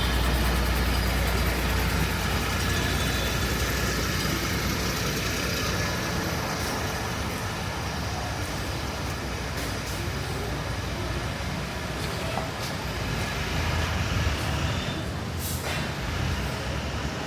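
Street traffic: motor vehicles running past in a steady wash of noise, with a short hiss near the end.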